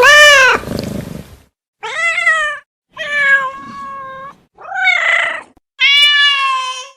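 Domestic cat meowing five times in a row, each meow a separate call of about a second, with short gaps between them; the first is the loudest.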